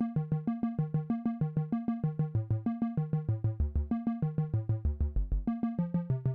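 Synthesizer sequence from Ableton Live 10's built-in instruments: a fast, even run of short pitched notes, about seven a second, in a repeating pattern that steps down into low bass notes.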